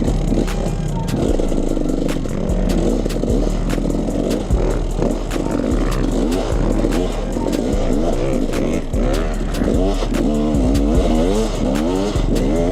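Two-stroke enduro dirt bike (KTM 300 EXC) being ridden on a trail, its engine revving up and down over and over as the throttle is worked, with music underneath.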